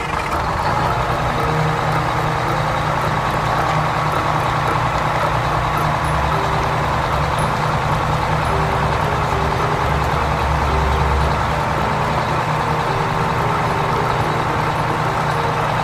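An engine running steadily, a continuous loud rumble without let-up.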